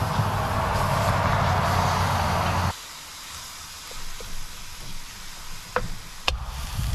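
Lean ground beef sizzling as it fries in a pan. The sizzle cuts off abruptly a little under three seconds in. It is followed by a quieter stretch with a few light clicks and two sharp knocks near the end.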